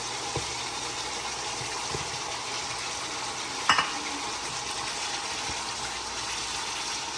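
Catfish in masala frying in a hot curry pot: a steady sizzle, with a short knock a little past halfway through.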